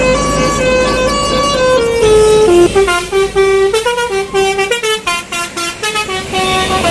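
Telolet bus horn playing a tune: long held notes at first, then a run of short quick notes from about three seconds in.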